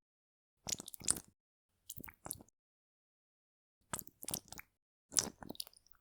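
Close-miked wet, sticky squishing and crackling of a skincare product being worked between fingers, in four short clusters with silence between.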